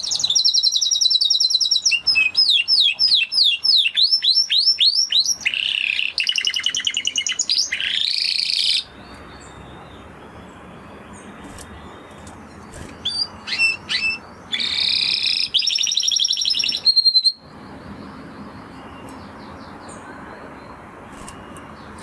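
Spanish Timbrado canary singing in fast trills and rolls of rapidly repeated, sweeping notes. The song breaks off about nine seconds in, leaving a faint hiss with a few short notes, then resumes with another trilled phrase before stopping again.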